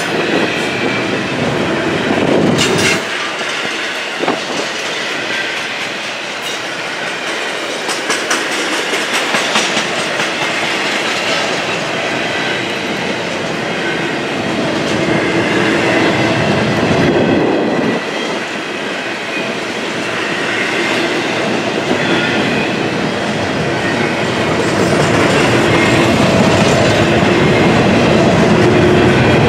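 Double-stack intermodal container cars rolling past: steady rumble of steel wheels on rail with the clickety-clack of wheels over rail joints, growing a little louder near the end.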